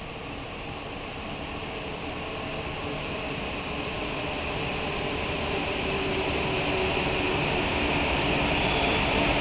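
E4 series double-deck Shinkansen pulling into the station: a steady rumble and hiss of the train running on the rails, growing gradually louder as it approaches and passes alongside the platform.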